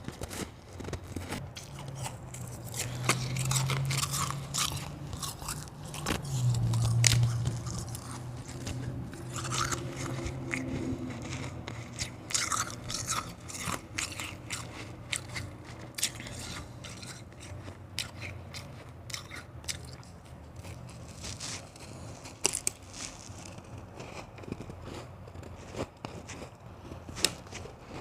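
A person biting and chewing hard white ice close to the microphone: sharp crunches and cracks come thick and fast through the first half, then thin out to scattered crunches. A low hum sounds twice in the first eight seconds, the loudest moments.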